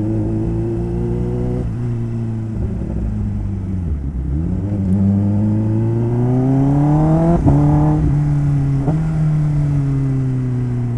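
Motorcycle engine pulling away: its pitch dips, then rises steadily, drops sharply twice in quick succession as it shifts up a gear, and then holds and slowly eases off.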